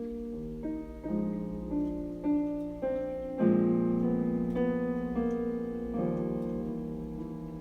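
Slow piano music: single notes and chords ring out and fade, with a fuller, louder chord about three and a half seconds in.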